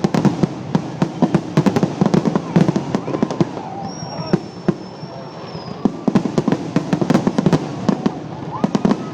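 Fireworks going off: a dense run of sharp cracks and pops that thins out midway, with a high whistle about four seconds in and a lower whistle starting near the end.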